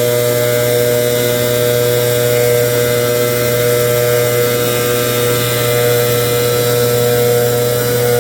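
Leaf blower running steadily at full throttle, a loud constant engine drone with a steady mid-pitched whine over a rush of air, blowing leaves out of a river-rock bed.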